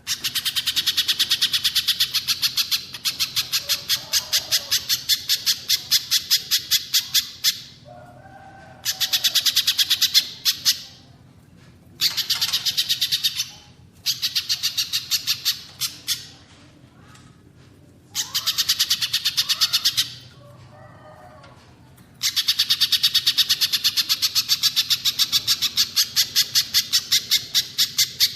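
Little spiderhunter (pijantung pisang) calling in bouts of rapid, evenly repeated high chattering notes, six bursts of about two to seven seconds each. Softer, lower chirps from another small bird fall in some of the gaps.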